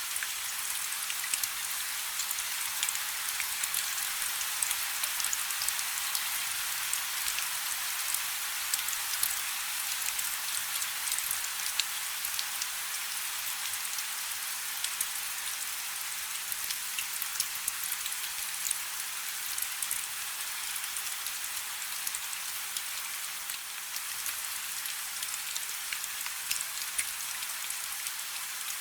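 Light rain falling steadily: an even hiss of fine drops with many small drop ticks scattered through it.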